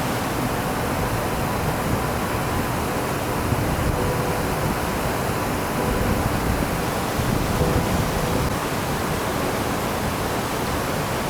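Steady roar of a large waterfall, a heavy volume of water crashing down into a narrow canyon.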